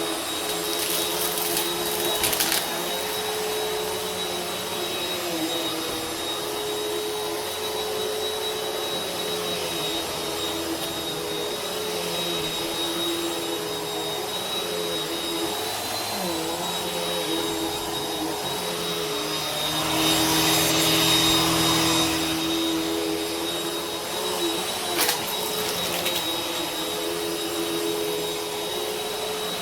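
Vacuum cleaner running steadily with a motor hum and a thin high whine. About two-thirds of the way through it gets louder and more rushing for a couple of seconds, and a few short clicks come near the start and again later.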